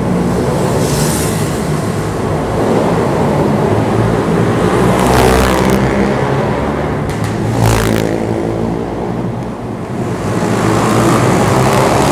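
Pit bike engine running and being revved as the bike is ridden, its pitch rising and falling with the throttle. Two short rushes of noise come about five and seven and a half seconds in.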